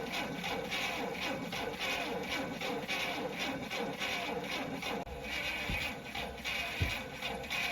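GAZ 21's four-cylinder engine being cranked by its starter motor in an even pulsing rhythm, during a check for spark at the plugs. Two short low thumps come near the end.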